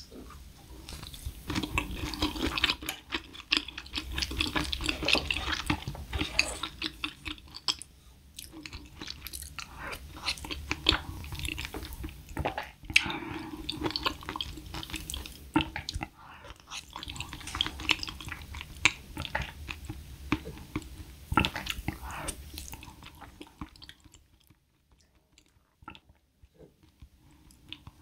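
Close-miked wet chewing and mouth sounds of eating a seaweed-wrapped bite and soft rice porridge, full of small clicks and smacks. It goes much quieter about 24 seconds in, where the soft porridge gives little chewing sound and mainly swallowing.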